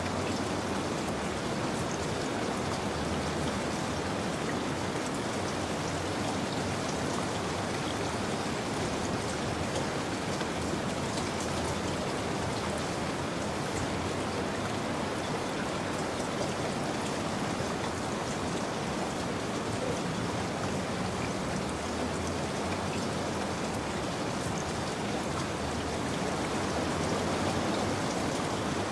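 Steady rain falling, a dense even hiss with light patter of drops on surfaces.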